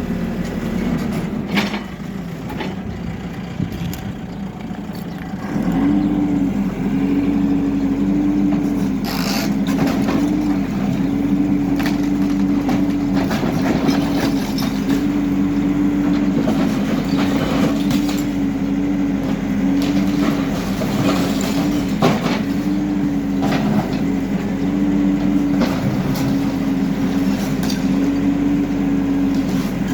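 HIDROMEK K4 Alpha backhoe loader's diesel engine working, revving up about five seconds in and then holding a steady pitch under load, with scattered cracks and crunches of breaking debris.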